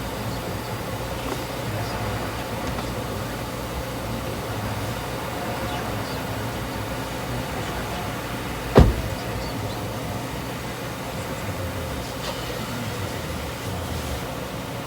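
Steady low mechanical hum with one sharp, loud thump about nine seconds in.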